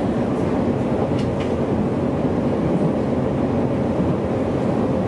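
JR East Joban Line electric train running at speed, heard from inside the carriage: a steady low rumble of wheels on rail and running gear.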